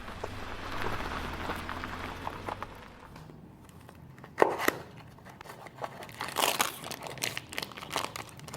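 Crinkling and rustling of a small cardboard toy-car box being handled and opened, with a sharp click about four seconds in and bursts of crackly rustling near the end. A steady engine-like rumble fades out over the first three seconds.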